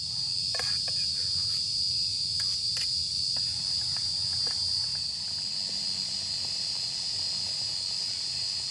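Night insects chirring in a steady, continuous high-pitched drone over a low rumble, with a few light clicks in the first three seconds.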